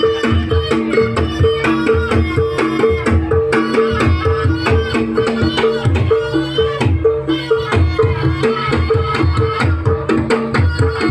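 Javanese traditional music for a trance (ndadi) folk performance: rapid hand-drum strokes under a repeating pattern of pitched metal percussion notes, with a wavering high melody line above.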